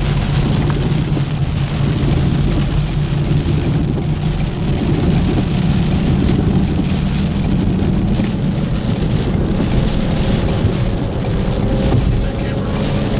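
Heavy rain falling on a car, with steady engine and road noise underneath.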